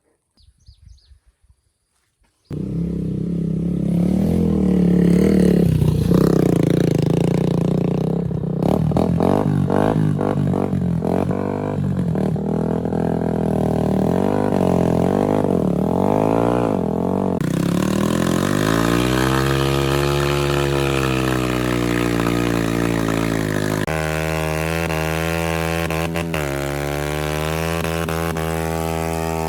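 Off-road motorcycle engine starting up about two and a half seconds in, then running and being revved up and down repeatedly.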